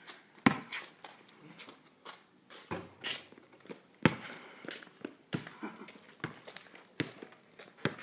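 Basketball bouncing on a paved court: a string of irregular sharp thuds, the loudest about half a second in and about four seconds in.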